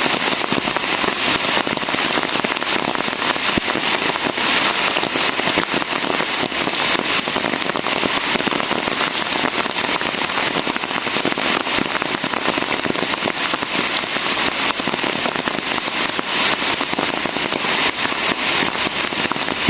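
Steady rain falling: a dense, even crackle of countless drops with no let-up.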